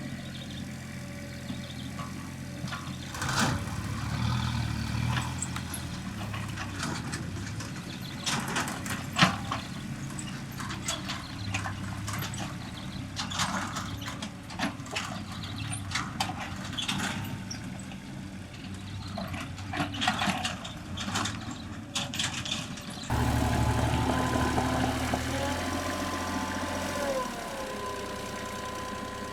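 Excavator diesel engine running, with many sharp metallic clanks and knocks from the machine at work. About two-thirds of the way in, the engine becomes louder, and a whining tone slides downward shortly after.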